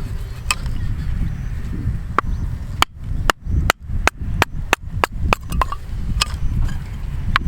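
Firewood being split: a series of sharp wooden knocks, scattered at first and then coming quickly for a couple of seconds in the middle.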